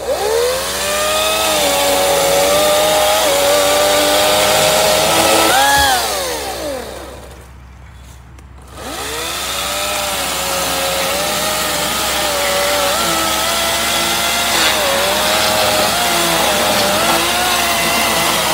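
EGO cordless battery chainsaw whining as it cuts wood. It runs about six seconds, spins down, and starts again about two seconds later, running on with small dips in pitch.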